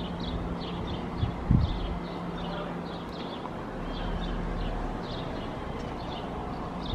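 A bird repeating short, high chirps, two or three a second, over a steady low hum, with a couple of soft thumps about a second and a half in.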